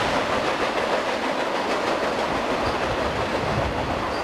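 Union Pacific freight train cars rolling past: the steady running noise of steel wheels on the rails.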